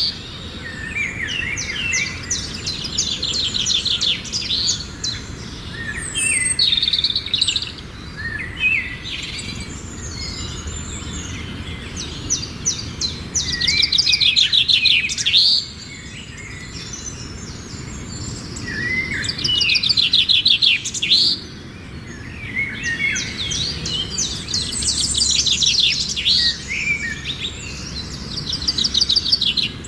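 Several birds chirping and trilling, with rapid runs of notes and short rising and falling calls overlapping almost without pause, over a faint steady low background rumble.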